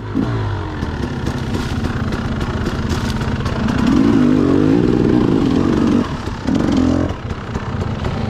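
Dirt bike engine running, revving up and falling back in pitch around the middle, easing off about six seconds in, blipping briefly just before seven seconds, then running lower.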